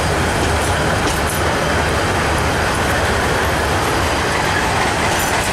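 Bangladesh Railway intercity passenger coaches rolling along the platform as the train enters the station: a steady, loud rumble of wheels on the rails.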